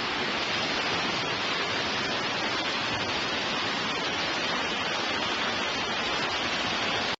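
Steady rushing of water, an even hiss that stays at one level without breaks.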